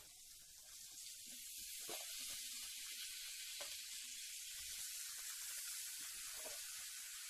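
Washed raw chicken pieces sizzling as they go into hot masala in a stainless-steel kadai: a steady frying hiss that swells about a second in, with a few soft knocks.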